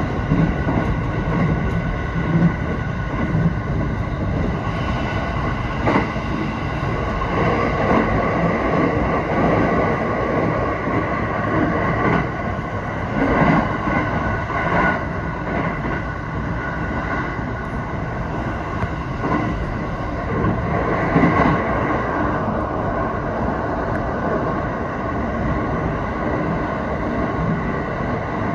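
Electric train running at speed, heard from inside the car: a steady rumble of wheels on rail with a high whine over it and a few sharper clacks.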